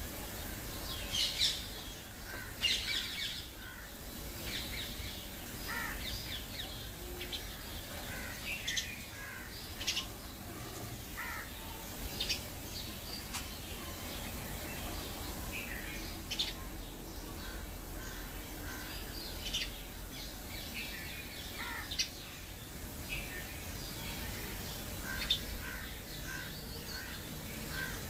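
Birds chirping and calling intermittently: many short, high calls scattered throughout over a steady low background noise.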